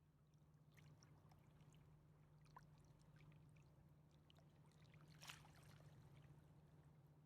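Near silence: a faint steady low hum with scattered small ticks, and one slightly louder crackle about five seconds in.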